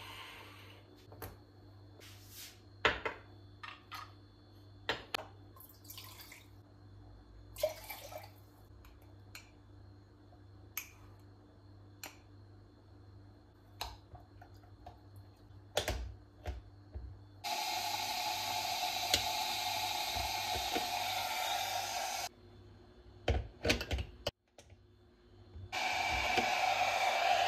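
Household handling sounds: scattered light clicks and knocks of things being set down and moved. Then a water tap runs steadily for about five seconds, stops, and runs again near the end.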